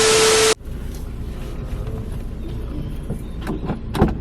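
A loud half-second burst of static-like noise with a steady tone, like an editing transition effect, cuts off suddenly. It gives way to the steady low rumble of a car, with a few clicks and a sharp knock near the end.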